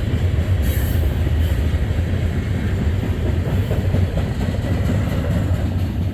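Freight train rolling past at close range: a steady low rumble with wheels clattering over the rail joints.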